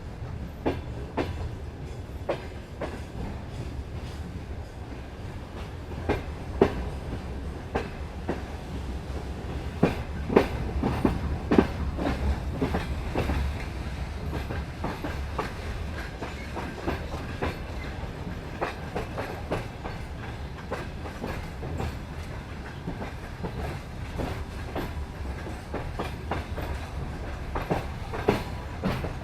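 Railway wheels rolling over rail joints: irregular sharp clacks over a steady low rumble, busiest about a third of the way in.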